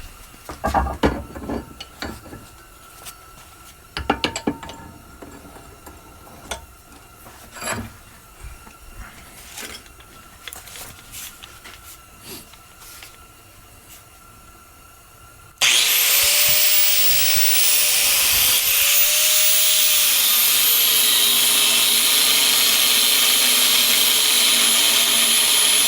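A few clinks and knocks of metal pieces being handled, then about 15 seconds in an electric power tool starts suddenly and runs loudly and steadily, its whine dipping in pitch twice before settling lower.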